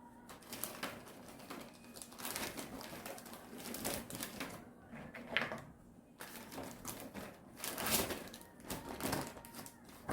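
Irregular clicks and taps of food-prep handling in a small kitchen, uneven and scattered.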